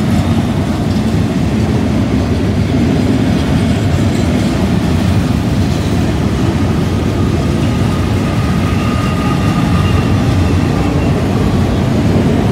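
Double-stack intermodal well cars of a CN freight train rolling past close by on a curve: a loud, steady rumble of steel wheels on rail. A faint high-pitched tone runs through it for a few seconds past the middle.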